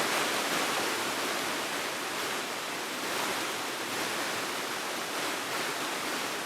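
Steady rush of moving water, an even hiss with no pauses or breaks.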